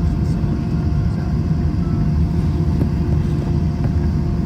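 Airbus A321 cabin noise while taxiing after landing: a steady low rumble from the idling jet engines, with a faint steady hum above it.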